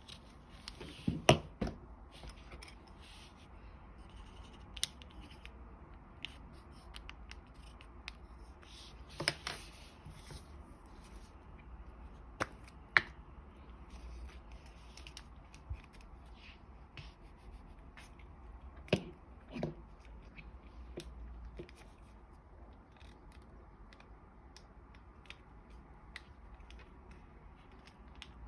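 Sheet of origami paper being folded and creased by hand: scattered crisp crackles and taps with quiet rustling between them, loudest about a second in and again around ten, thirteen and nineteen seconds.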